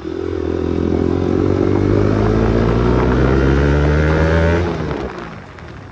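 Motorcycle engine running under acceleration, its pitch rising slowly and steadily, then dying away about four and a half seconds in.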